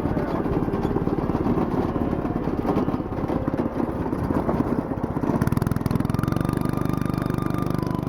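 A go-kart's stock 4-horsepower single-cylinder engine running under way, with a rapid, even firing beat that settles into a steadier pitch about five seconds in.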